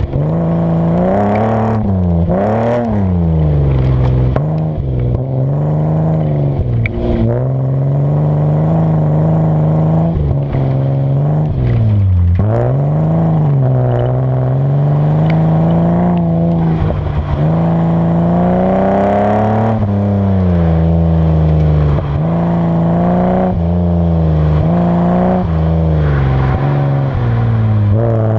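BMW E30's engine revving hard and easing off again and again as the car is driven on a dirt rallycross course, heard from under the front bumper. The pitch climbs and drops every second or two, with scraping and clattering from gravel and dirt under the car.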